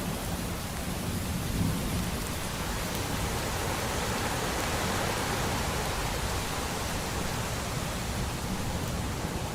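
Steady rain with a low rumble of distant thunder underneath, swelling around the middle.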